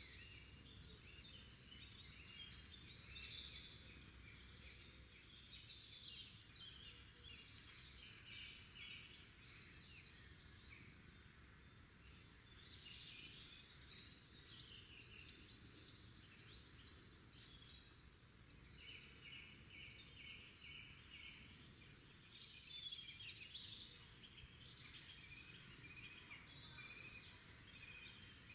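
Several songbirds singing and chirping over a faint, even low hiss. About twenty seconds in, one bird gives a run of about seven evenly spaced notes.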